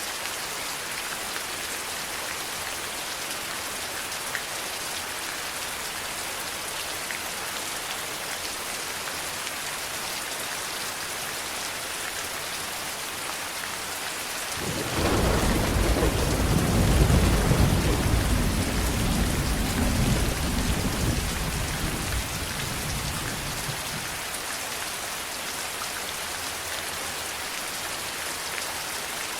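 Steady heavy rain falling, with a roll of thunder that breaks in suddenly about halfway through, rumbles low and loud for several seconds and fades away.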